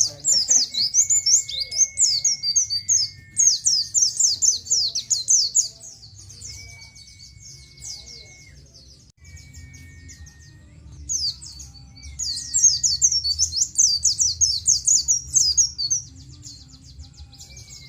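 White-eye (pleci) singing: dense runs of very rapid, high chirping notes in bursts, softer for a few seconds in the middle before picking up again. A thin, steady whistle at a lower pitch comes in several times, each held a second or two, over a faint low hum.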